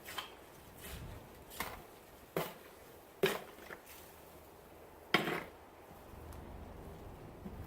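Wet seed-starting soil mix of peat, compost and sand being stirred in a container: about five irregular scraping knocks, the loudest a little past three seconds in and again about five seconds in.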